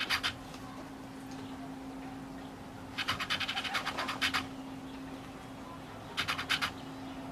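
Animal calls from outside: short bursts of rapid, high ticking trills, three times, over a steady low hum.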